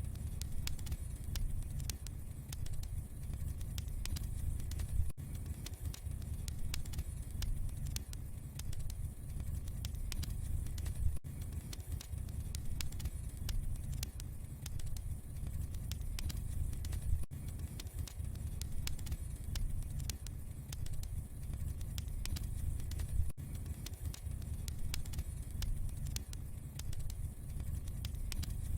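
Wood fire burning in a fireplace: a steady low rumble of flames with frequent small crackles and pops, and a brief break in the sound about every six seconds.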